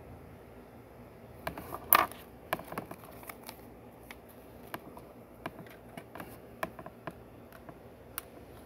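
Small plastic Lego pieces being handled and pressed together: scattered light clicks and taps, with a louder snap about two seconds in.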